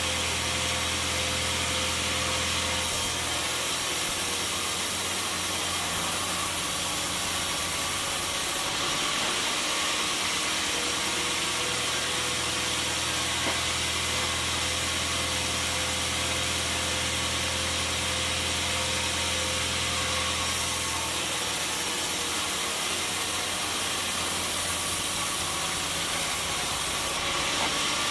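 Sawmill machinery running steadily: a motor hum under a loud hiss, the hiss shifting in tone a few times.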